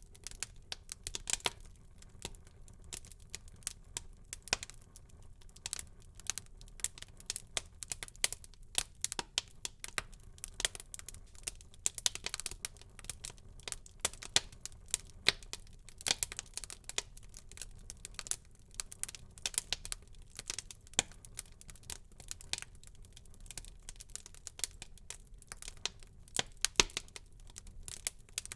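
Wood fire burning in a fireplace, crackling with many irregular sharp pops and snaps over a faint low hiss.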